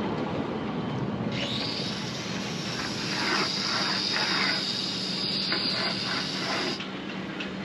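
Electric power tool running with a steady high whine, switched on about a second and a half in and cut off abruptly near the end.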